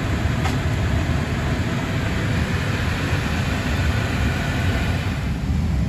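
Steady rumble and rushing hiss of Airbus A321neo aircraft noise. The hiss swells just before and fades back about five and a half seconds in, leaving the low rumble.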